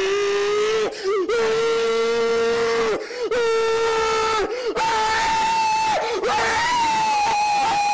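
A man screaming in long, steady held cries, about five in a row with short breaks between. The pitch jumps much higher about five seconds in.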